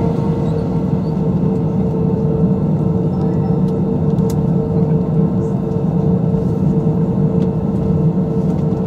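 Steady cabin noise inside an Airbus A320-214: a constant low hum with one steady held tone above it.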